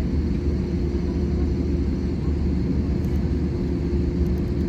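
Airbus A320-200 cabin noise: the engines and airframe give a steady low rumble with a faint constant hum, unchanging throughout.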